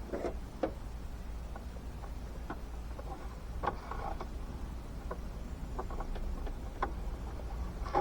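Scattered light clicks and knocks of hands working a rubber coolant hose and its spring clip onto a fitting in an engine bay, over a steady low hum.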